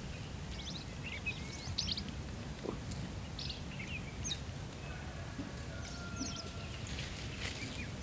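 Outdoor natural ambience: several small groups of short, high bird chirps over a steady low rumble, with one thin held whistle a little past halfway.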